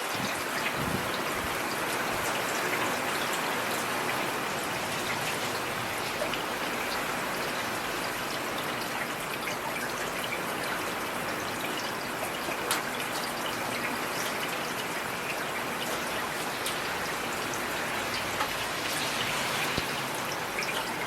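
Heavy rain falling steadily, a constant hiss with many scattered drop impacts.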